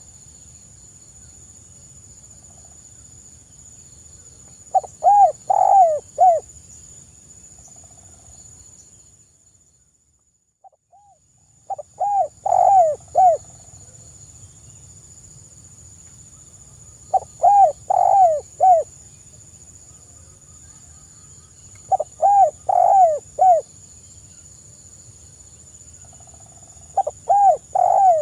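Spotted dove (tekukur) cooing: five repeated phrases of three or four short, arched coos, about five seconds apart. A faint steady high-pitched hiss runs behind them and drops out briefly near the middle.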